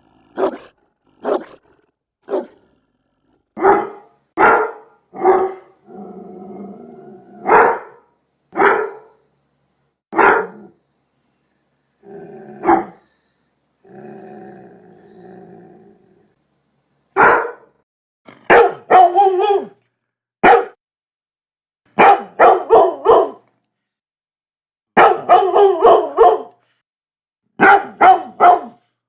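Dog barking: single loud barks a second or so apart, with two spells of low growling between them. In the second half the barks come in quick runs of three to five.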